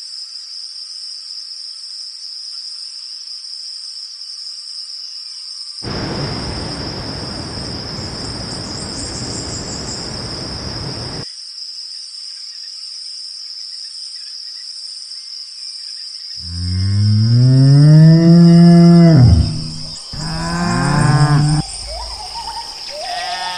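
A bovine lowing: one long, loud moo that rises and then falls in pitch, starting about two-thirds of the way in, followed by a shorter second moo. Before it, a steady high-pitched drone and a five-second burst of rushing noise.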